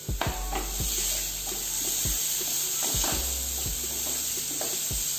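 Sliced mushrooms and chopped onion sizzling in oil in a non-stick frying pan, stirred with a wooden spatula that scrapes and knocks against the pan at irregular intervals.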